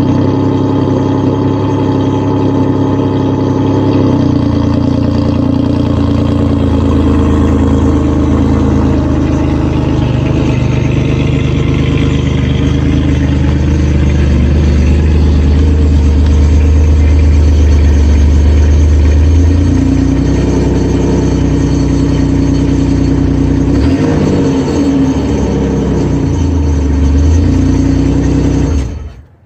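Car engine running at idle from a cold start, with an exhaust leak. The engine note shifts a few times, settling lower then rising again, and the sound stops abruptly near the end.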